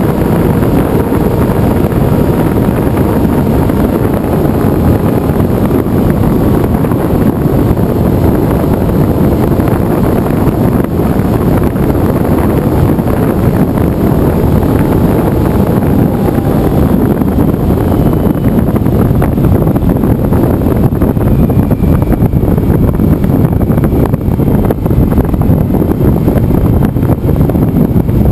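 Loud, steady wind rush buffeting the onboard camera's microphone on a flying RC flying wing, with a faint whine that drifts slowly up and down in pitch.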